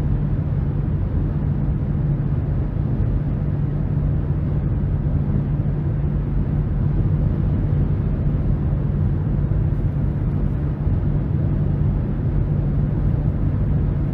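Cabin noise of a 2023 Nissan Rogue with its turbocharged 1.5-litre three-cylinder, cruising at highway speed: a steady low engine hum under tyre and road rumble.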